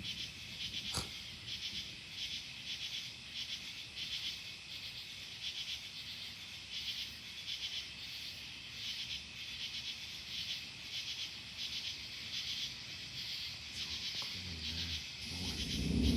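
Night insects chirping in a steady pulsing rhythm, two or three pulses a second. Near the end a low thunder rumble rises and builds, following a lightning flash.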